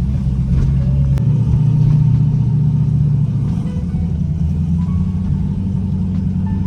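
Turbocharged LS V8 of a third-generation Camaro running with a steady low note. It swells a little about a second in and eases back after about three seconds.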